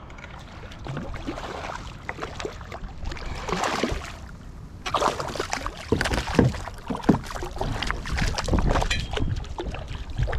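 Irregular water splashing and sloshing from a small hooked redfish fighting at the surface beside the kayak, over a steady low rumble of wind on the microphone. The splashing surges briefly about four seconds in and is busiest from about five seconds in.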